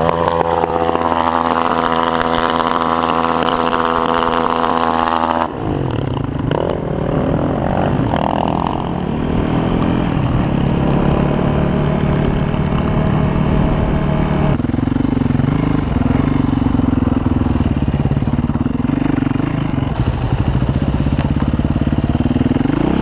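Enduro dirt bike engine under hard throttle: revs climb at the start and hold high for about five seconds, drop suddenly, then rise and fall with the throttle at lower revs before climbing again near the end.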